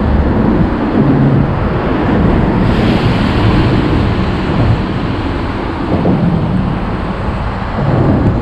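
Loud, steady wind rush buffeting the microphone while cycling in the rain, with a brighter hiss from about three seconds in.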